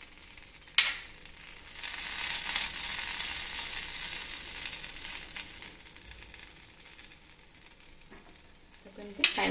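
Dosa sizzling in oil on a hot nonstick tawa while a spoon spreads the potato filling over it, the sizzle louder from about two seconds in and then fading. A sharp click of the spoon about a second in and another near the end.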